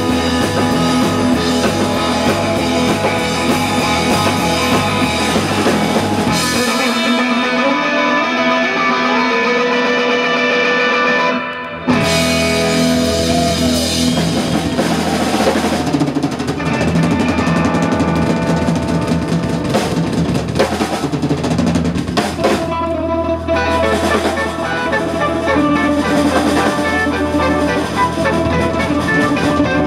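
Live rock band playing an instrumental passage on electric guitar and drum kit. About a third of the way in the bass and drums drop away for a few seconds, leaving the guitar, then the full band comes back in.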